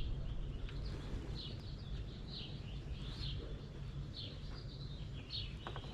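Small birds chirping, short high notes repeated every half second or so, over a steady low rumble of wind on the microphone.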